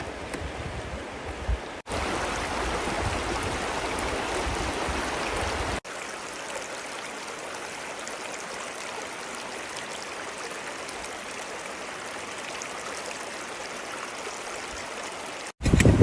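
River water running steadily, an even rushing noise. It is broken by two abrupt cuts about two and six seconds in, and the middle stretch is louder.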